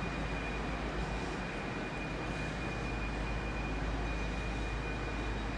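Steady low rumble and hum of trains idling in a railway station, with a thin, constant high-pitched whine over it.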